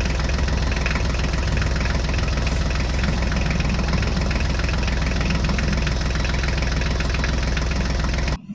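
Tractor engine idling sound, running steadily at an even rapid pulse with a strong low hum, that cuts off suddenly near the end. It is most likely the toy tractor's built-in engine sound effect.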